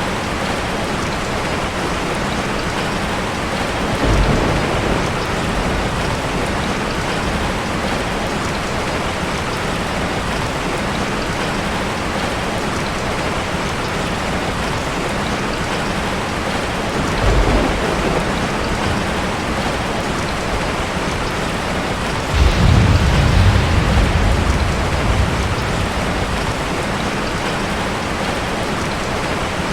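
Heavy rain falling steadily, with rolls of thunder: a short low rumble about four seconds in, another about seventeen seconds in, and a longer, louder roll starting about twenty-two seconds in and lasting a few seconds.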